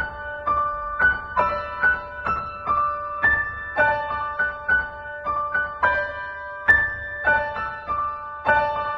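Background piano music: a slow melody of ringing notes, one about every half second.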